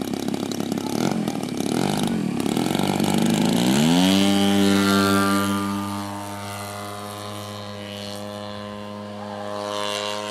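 Gasoline engine and propeller of a 35% Hangar 9 Extra 300 radio-controlled aerobatic plane. It runs unevenly at first, then about three and a half seconds in the pitch rises as the throttle opens. It then holds a steady high note that fades somewhat.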